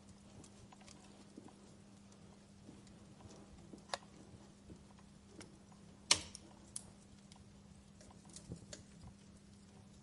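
Wood fire crackling: scattered small clicks and pops, the loudest a sharp pop about six seconds in, over a faint steady low hum.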